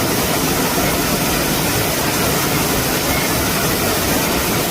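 Loud, steady rush of falling water, as of a waterfall close to the microphone.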